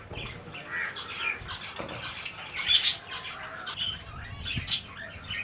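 Budgerigars chirping and chattering in quick, busy calls, with a few sharper, louder calls near the middle and near the end.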